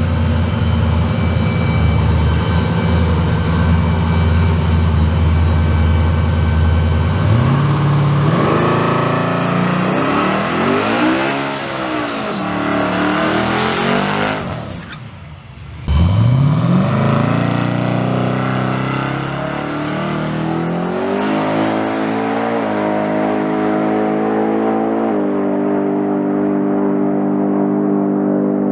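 Turbocharged race truck engine idling, then revved up and down several times. About halfway through it nearly cuts out and comes back suddenly with a quick rise in revs, then settles into an idle that shifts pitch a few times. The crew suspects the turbo, which has thrown oil and smells burnt.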